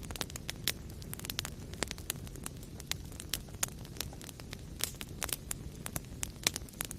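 Wood fire in a fireplace crackling, with many sharp irregular pops and snaps over a steady low rumble of the burning.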